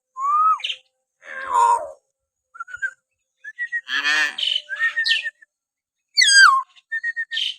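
Hill myna whistling and calling in a string of varied short notes: clear whistles that glide up and down, some harsher calls, and one loud falling whistle near the end.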